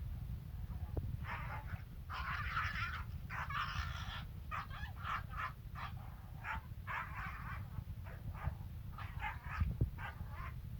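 Kangal dog giving a run of short, high yips and whimpers, one after another, over a steady low rumble.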